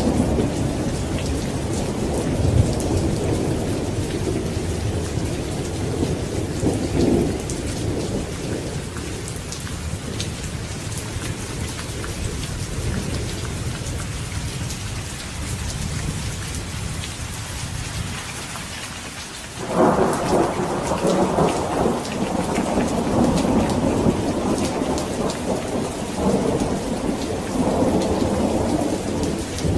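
Steady rain falling, with thunder. A low rumble dies away over the first several seconds. A little past the middle a sudden thunderclap breaks in and rolls on, swelling twice more near the end.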